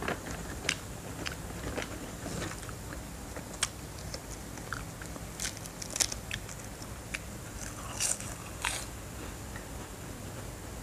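Crispy seaweed snack being bitten and chewed: irregular sharp crunches, the loudest about six and eight seconds in.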